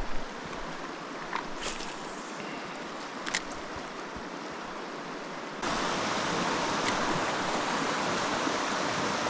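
Stream water rushing steadily, with a couple of faint clicks in the first half; a little over halfway through the rush abruptly becomes louder and fuller.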